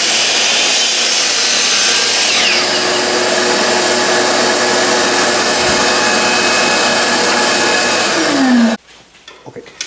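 Miter saw running and cutting through a 2-inch-square wood block. It stops suddenly about nine seconds in, with a short falling pitch just before.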